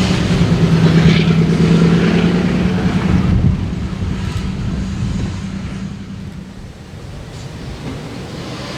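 Freight train's diesel locomotive running with a steady low drone that fades away after about three and a half seconds.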